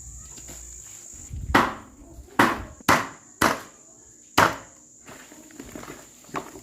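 Five heavy chopping blows, unevenly spaced, over a steady high-pitched tone.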